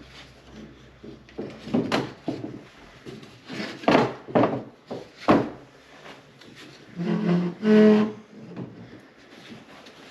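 Small wooden bridge parts being handled and fitted together: scattered light knocks and clicks of wood on wood, the loudest about four and five seconds in. Near three-quarters of the way through come two brief low pitched tones.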